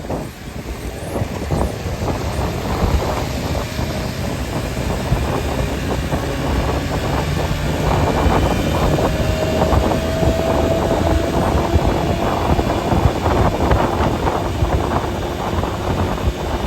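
A vehicle driving along a road: a steady low rumble of engine and tyres with wind noise and frequent small knocks and rattles, and a faint whine for a few seconds in the middle.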